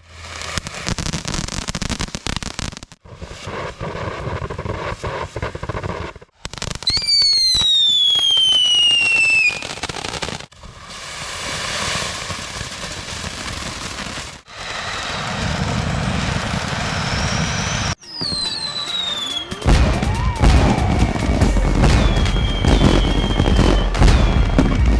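Fountain fireworks spraying with a steady hiss, heard in short clips cut one after another. A falling whistle sounds about seven seconds in and again around eighteen seconds, and dense crackling fills the last five seconds.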